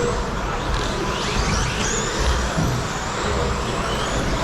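Electric 13.5-turn brushless RC stadium trucks racing, their motors whining in many overlapping pitches that rise and fall as the trucks accelerate and pass, over a steady low rumble.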